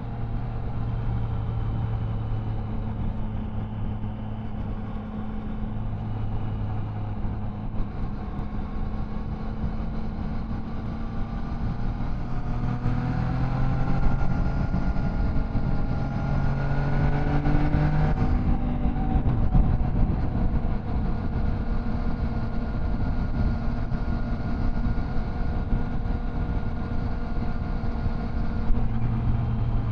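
Triumph Tiger Sport 660's inline three-cylinder engine and exhaust running at a steady cruise, under a low rush of wind and road noise. About twelve seconds in, the engine note climbs for several seconds as the bike accelerates, then drops sharply and settles back to a steady drone.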